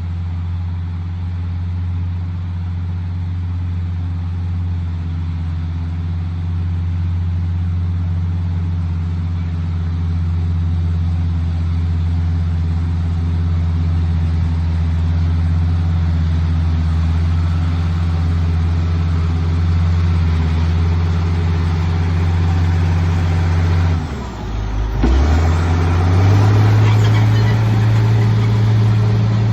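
A vehicle engine running steadily under load. About 24 seconds in it briefly dips, then picks up again at a slightly higher, louder pitch.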